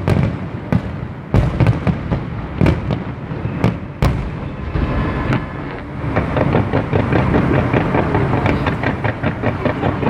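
Fireworks display: aerial shells bursting with sharp bangs, about seven in the first four seconds. From about six seconds in they give way to a dense, rapid crackling.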